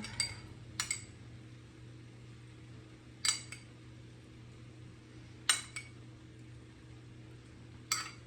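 Cooking utensil clinking against cookware: a handful of short, sharp, ringing taps a second or more apart, over a faint steady low hum.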